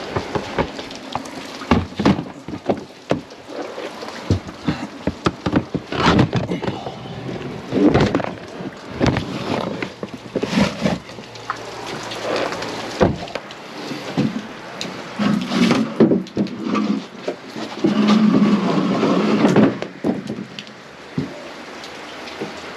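Rain falling, with many irregular knocks, thumps and scrapes of boxes and gear being handled and loaded.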